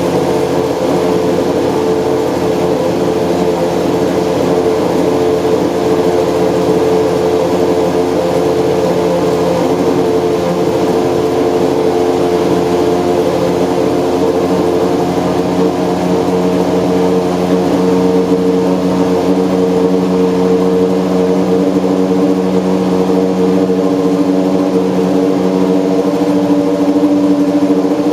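Engine of the apr Toyota Prius GT, a Super GT GT300 race car, idling steadily with a low, even running note.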